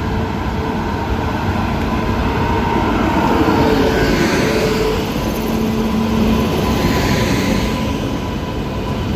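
Indian Railways electric locomotive and its passenger coaches pulling in alongside a platform, with a steady rumble of wheels on rail and faint steady humming tones from the locomotive. The sound is loudest as the locomotive passes close by, about three to four seconds in, then carries on as the coaches roll past.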